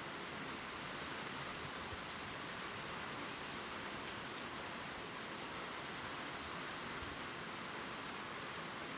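Gentle rain falling on leaves: a steady, even hiss with a few faint drop ticks.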